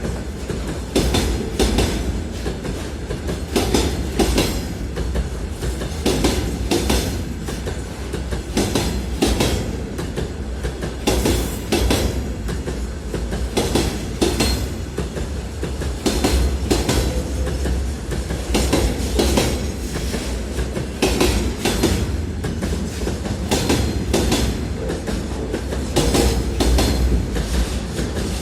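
Freight train wagons rolling along the track, their wheels clicking rhythmically over rail joints under a steady low rumble.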